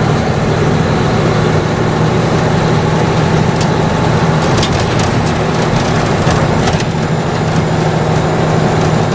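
Mack truck's diesel engine running under way at a steady pitch, heard from inside the cab, with scattered light rattles and clicks around the middle.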